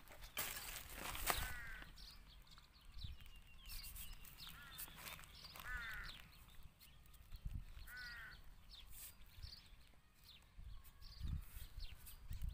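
A bird gives short harsh calls four or five times, spaced a second or more apart. Between them are scattered knocks and low thumps from a hatchet and a metal bar being worked into a pile of plastic rubbish.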